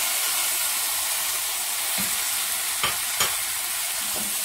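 Chopped tomatoes sizzling steadily in hot oil as they go into the fried onion and spice masala, stirred with a wooden spatula. The spatula knocks against the pan a few times around the middle.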